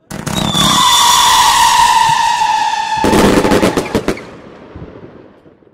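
Fireworks: a whistle sliding slightly down in pitch over hissing crackle for a few seconds, then a rapid cluster of sharp bangs and crackles about three seconds in that fades away.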